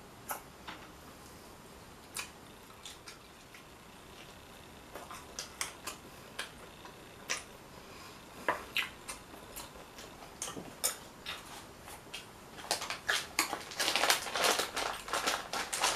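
Crisp crunches and crackles of a hard corn taco shell being bitten and chewed, a few scattered at first, then coming thick and fast over the last few seconds.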